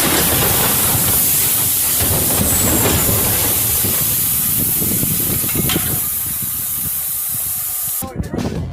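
A loud, steady hissing rush of noise. It breaks off abruptly about eight seconds in, followed by choppy, uneven sound.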